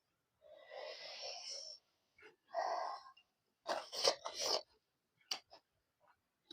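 Close-up mouth and breath sounds of a person eating spicy pork with rice: a long breathy hiss, then shorter breaths and a cluster of wet smacks and clicks from chewing.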